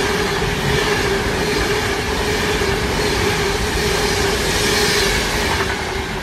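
Electric passenger train passing: a steady rush of wheels on the rails with a constant hum, easing off near the end as the last carriage goes by.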